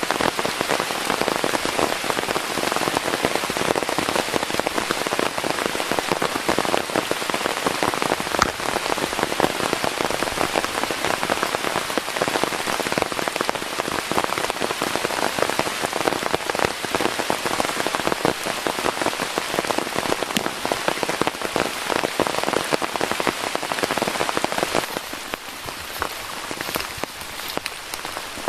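Steady rain, a dense patter of drops with many sharp individual drop ticks close by, easing a little near the end.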